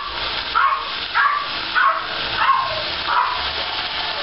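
Vegetables sizzling as they fry in a pot, with a short high whine repeating about five times, roughly every two-thirds of a second.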